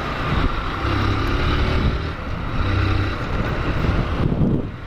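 Single-cylinder engine of a Honda Fan 160 motorcycle running under way, its note swelling and easing, with wind noise on the helmet-mounted mic. The engine sound drops briefly near the end.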